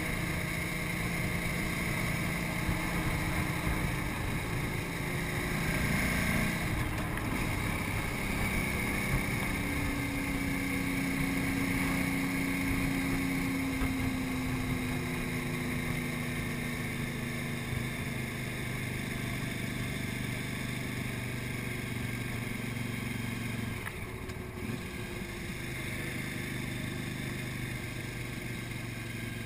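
KTM 950 Super Enduro's 950cc V-twin engine running steadily at road speed, heard from on the bike, with wind rushing over the microphone. The engine note eases slowly downward in the middle and dips briefly twice, once early and once near the end.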